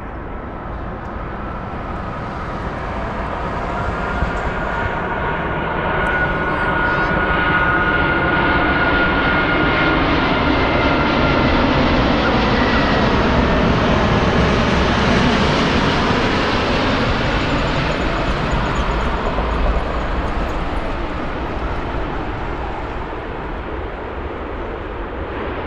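A large double-deck jet airliner passing low overhead on its landing approach. The engine noise swells to a peak about halfway through and then fades away, with a thin high whine during the first half.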